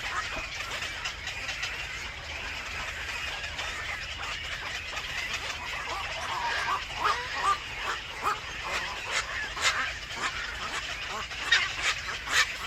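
Birds calling in a run of short, repeated calls, busier from about halfway through, over a steady background hiss.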